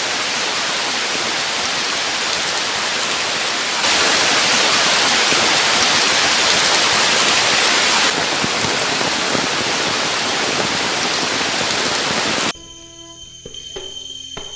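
Heavy downpour: a dense, steady hiss of pouring rain, louder for a few seconds in the middle. About twelve seconds in it cuts off abruptly and gives way to quiet music.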